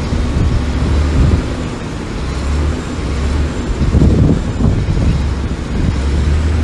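Heavy diesel earthmoving machinery running with a steady low drone, with a few louder knocks at the start and about four seconds in.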